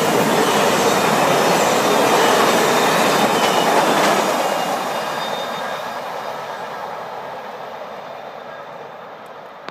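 Train's passenger cars rolling past on the rails. The rear of the train goes by about four seconds in, and the rolling sound then fades steadily as the train moves away.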